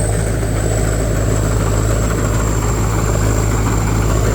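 Combine harvester's diesel engine running steadily, with a thin high-pitched whine held above the low hum.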